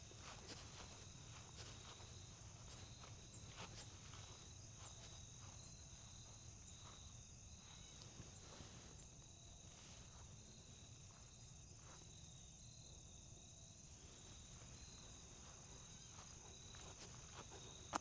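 Faint, steady high-pitched insect chorus, crickets trilling continuously, with soft footsteps crunching on a trail.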